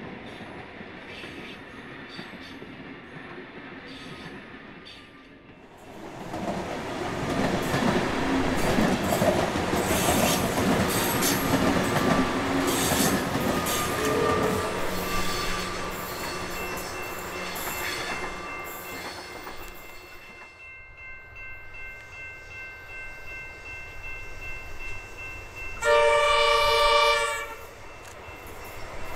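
Electric suburban trains on the line: a loud rumble of wheels on rail as an X'Trapolis multiple unit passes close by, then a steady whine as it draws away. Near the end, an approaching Comeng electric train sounds its horn once for about a second and a half, the loudest sound.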